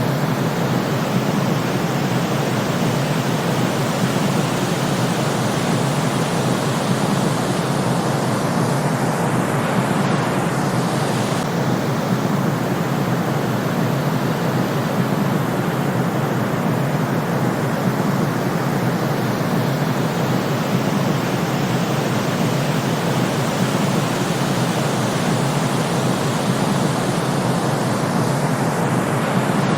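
Steady white noise from a sleep-timer track: an even, unchanging hiss with most of its weight in the low end.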